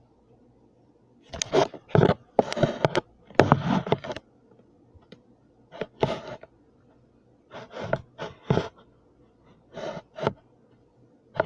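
Slime being squished by hand in a series of short bursts of crackling squelch, with pauses between.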